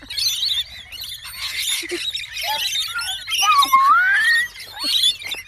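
A group of birds chirping and squeaking, many short high calls overlapping, with one louder rising call about three and a half seconds in.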